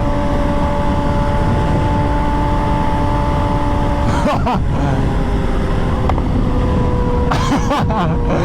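A vehicle engine running at steady revs, a steady hum over a dense low rumble, its pitch sinking slightly after about six seconds.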